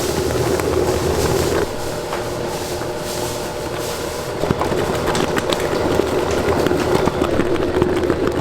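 A machine running steadily with a constant hum, with scattered clicks and clatter over it.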